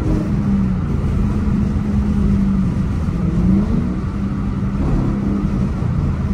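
Dodge Challenger R/T's 5.7-litre HEMI V8 droning steadily at highway cruising speed, heard from inside the cabin over tyre and road noise. The revs sag slightly and climb back about three seconds in.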